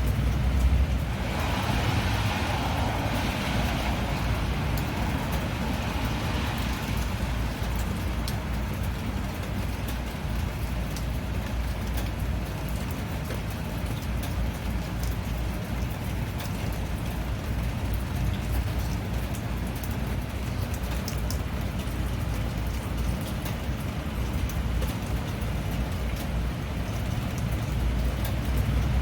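Steady rain with scattered drop ticks over a low rumble of road traffic. A swell of wet tyre hiss rises and fades a second or so in, and another builds near the end.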